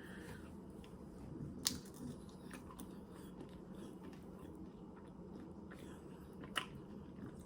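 Faint biting and chewing of a milk chocolate bar with popping candy inside, with a few sharp little cracks, the clearest about two seconds in and again near the end.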